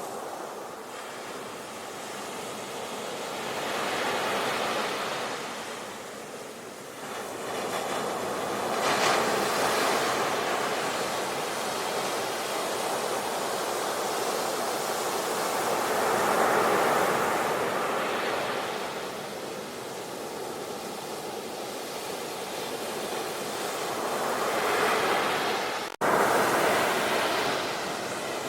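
Ocean waves breaking and washing on a shore: a steady rush of surf that swells with each breaker every several seconds. Near the end the sound cuts out for an instant and comes back louder.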